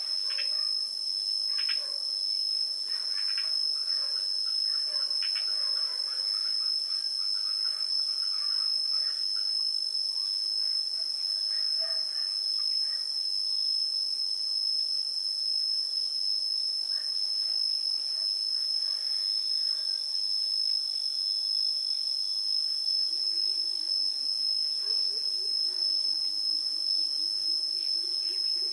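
Steady, high-pitched chorus of insects, a continuous drone. Faint short chirps come through it in the first half, and a low wavering hum joins near the end.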